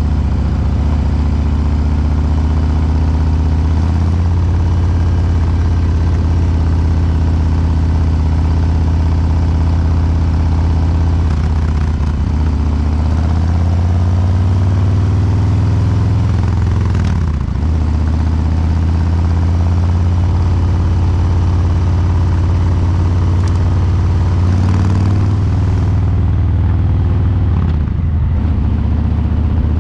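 Harley-Davidson Breakout 114's Milwaukee-Eight V-twin running through COBRA Neighbor Hater slip-on mufflers, its fuel injection tuned for a slow 'three-beat' lope. It mostly holds a steady low note, with the pitch rising and dropping with the throttle a few times, once about 12 seconds in and again near the end.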